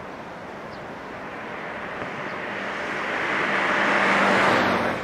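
A JR 103-series electric train running past, its rolling noise swelling over a couple of seconds with a steady low hum, loudest near the end and then dropping off sharply.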